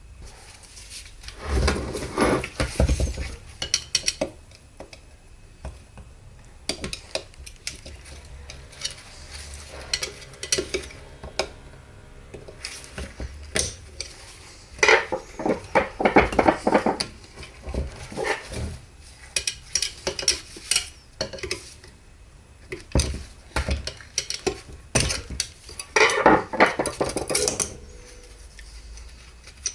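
Metal transmission parts and hand tools clinking and clattering as they are handled and set down on a workbench, in irregular bursts with a few busier stretches, over a low hum.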